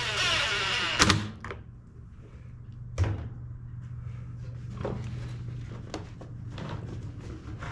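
A handheld power tool whirs for about a second, then stops with a sharp knock; a second knock follows about two seconds later, then light clatter of parts being handled over a steady low hum.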